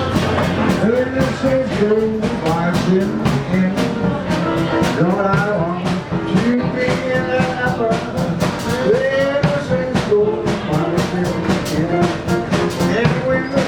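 Live classic jazz band playing, a brass melody line weaving over a steady drum beat.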